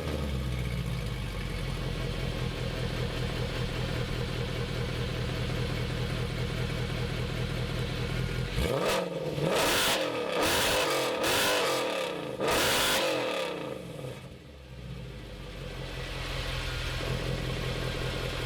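A Mercedes C63 AMG Black Series' 6.2-litre V8, breathing through aftermarket Weistec headers and exhaust, idles steadily with a deep burble. About nine seconds in it is blipped through about four quick, sharp revs, then drops back to idle.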